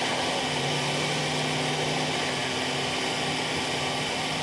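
Bulldozer's diesel engine running steadily, with an even mechanical hum.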